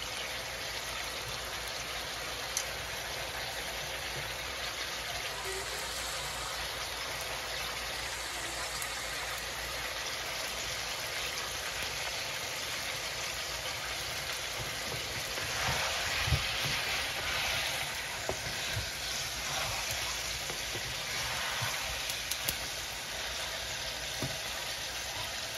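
Chicken pieces and whole tomatoes sizzling steadily in a pan as the chicken's released water cooks off. The hiss swells a little past the middle, with a few light taps.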